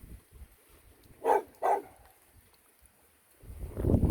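A dog barks twice in quick succession, two short yaps. Near the end a low rumbling noise rises.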